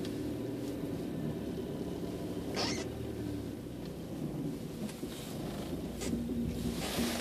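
Car running slowly with the heater on, a steady low engine and fan hum heard from inside the cabin, with a brief rustle about two and a half seconds in.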